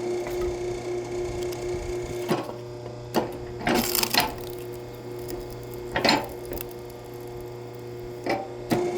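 Axe striking firewood: a series of sharp wooden knocks and cracks, irregularly spaced a second or two apart, with a cluster near the middle. A steady low hum runs underneath.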